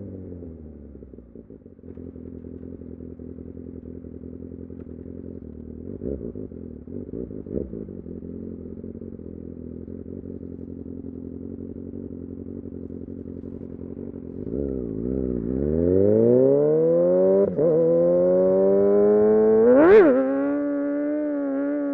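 Kawasaki Ninja ZX-6R inline-four engine dropping to a steady, muffled idle, then revving up in rising sweeps about two-thirds of the way in. A sharp crack comes at the peak, and the engine settles to a steady higher-pitched note.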